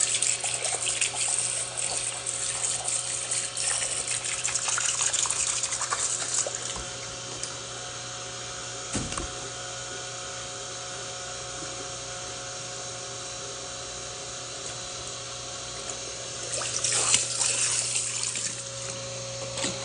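Water running from a tap into a sink, splashing, for about six seconds, then stopping and running again for a couple of seconds near the end. A steady low hum is under it, and there is a single thump in the quiet middle.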